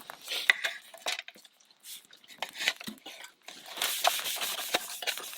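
Scattered small clicks and taps of tableware and food packaging being handled, with a stretch of rustling from about four seconds in.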